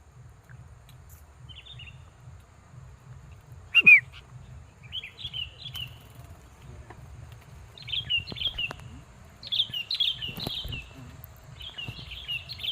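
Sooty-headed bulbul (kutilang) calling in short, bubbly chirping phrases that come every second or two, over a low steady rumble.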